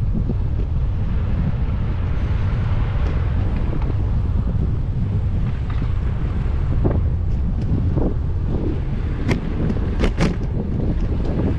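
Wind buffeting a GoPro's microphone on a moving bicycle, a steady low rumble, with a few sharp clicks and rattles near the end.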